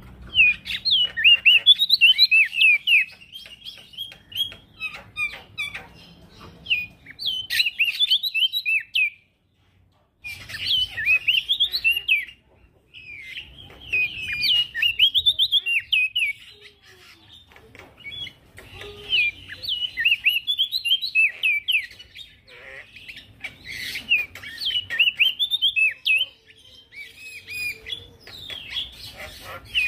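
Male prenjak daun, a small songbird, singing in long phrases of rapid, high chirping notes broken by short pauses.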